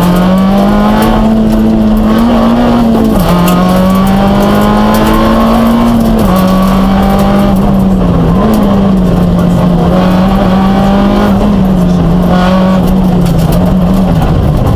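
Peugeot 106 rally car's four-cylinder engine running hard at high revs, heard from inside the cabin. The pitch stays high and fairly steady, with short drops about three, six and eight seconds in and again near the end.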